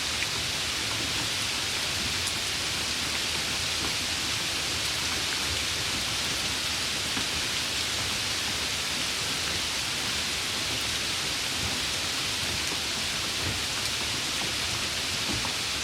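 Steady, even rain falling, a continuous hiss with faint scattered drop ticks and a soft low rumble beneath.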